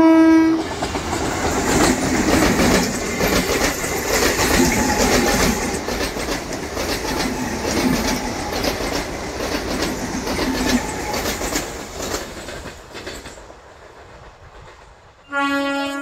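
An electric multiple unit local train's horn ends just after the start. Then the train passes close at speed, its wheels clattering in a rhythm over the rail joints, and the sound fades away. Near the end another EMU's horn sounds, lower in pitch.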